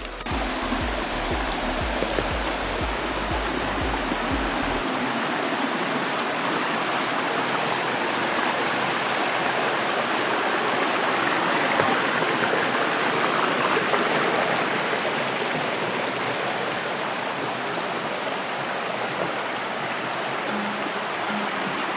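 Steady, dense rush of flowing and falling water in a rocky woodland stream. A low music beat fades out in the first few seconds.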